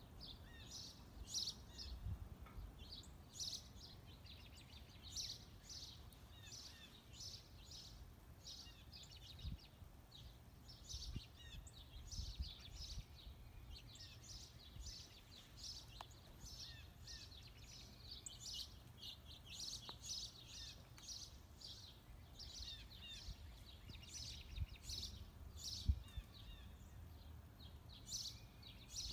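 Birds chirping, short high calls repeating every second or so, over a faint low rumble.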